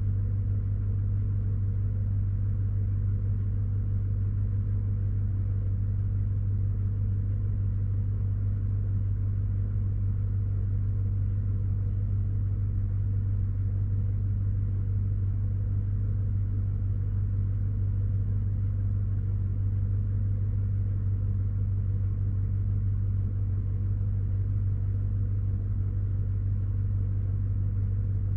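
Chevrolet Silverado's V8 idling steadily as it warms up after a cold start, a low even drone that does not change.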